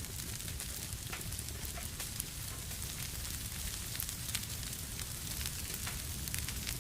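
Wood fire burning in a fireplace: a steady hiss and low rumble with irregular small crackles and pops.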